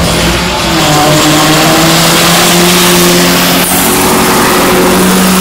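Ford Scorpio's engine held at high, fairly steady revs during a burnout, its rear tyres spinning on the tarmac, with a brief dip in revs about three and a half seconds in.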